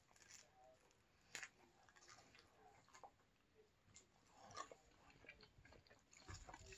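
Faint mouth sounds of biting and chewing crispy thin-crust flatbread pizza, with a few scattered sharp crunches, the clearest about a second and a half in.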